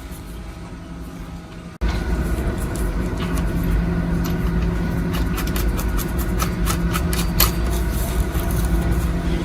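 A machine running with a steady, constant hum. About two seconds in it turns abruptly louder, with many sharp clicks and scraping over the hum.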